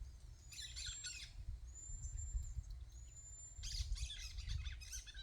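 Great kiskadees calling: two bursts of rapid, harsh notes, about a second in and again from about four seconds, with thin high whistled notes in between and a low rumble underneath.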